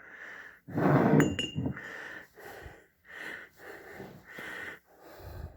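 Rhythmic heavy breathing close to the microphone, about one breath every second or less, with a light metal clink about a second in.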